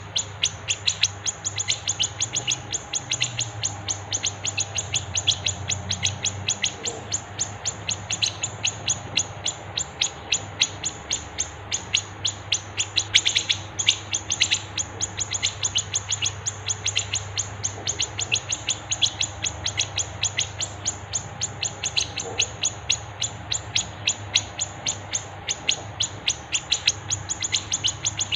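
Songbird chirping in a rapid, unbroken series of sharp high chirps, about five a second, from a masteran birdsong recording made for training caged songbirds.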